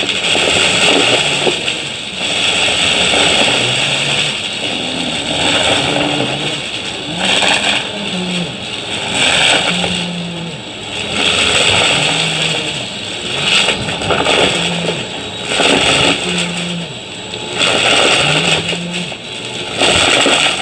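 Vacuum cleaner running while pushed quickly back and forth over the floor, its pitch and loudness rising and falling about every two seconds.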